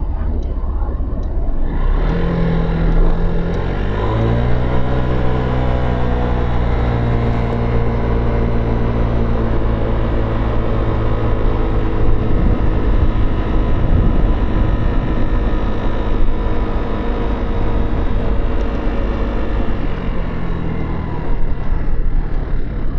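Motorcycle engine rising in pitch as it picks up speed a few seconds in, then holding a steady note at cruising speed over a low wind rumble. The engine note drops back down near the end.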